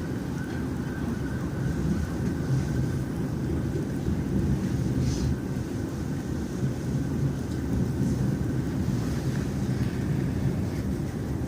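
Electric suburban train running along the track, heard from inside the carriage as a steady low rumble. A faint high whine runs under it and fades about nine seconds in, and there is a brief hiss about five seconds in.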